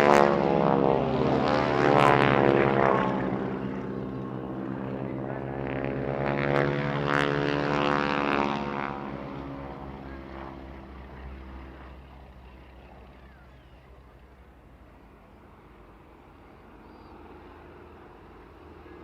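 Boeing Stearman biplanes' radial piston engines and propellers passing low: one loud pass near the start and another about seven seconds in, the engine note dropping in pitch as each goes by, then fading to a distant drone.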